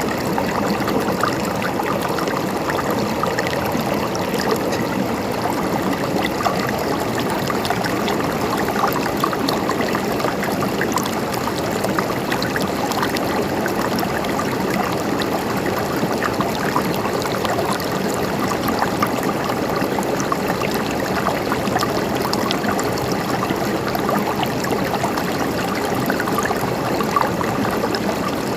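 A river or stream flowing steadily, water babbling and gurgling over rocks.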